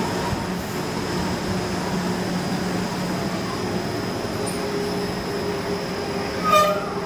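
Greater Anglia electric multiple-unit train moving slowly past along the platform: a steady hum of motors and wheels with a thin high whine above it. A louder pitched tone starts near the end.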